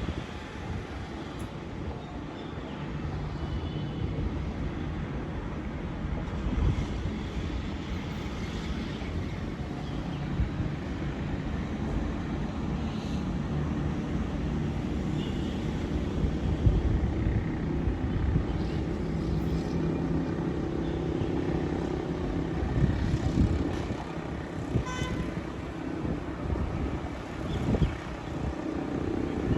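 City road traffic: a continuous rumble of passing cars and engines, with wind gusting on the microphone now and then.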